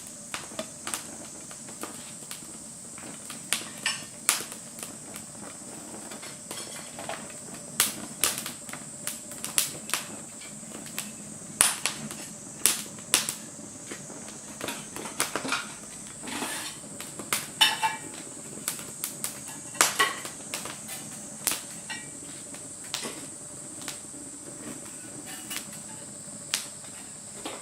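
Wood fire crackling and popping in a small Firebox camp stove, with irregular sharp snaps at uneven intervals. A steady high-pitched tone runs underneath.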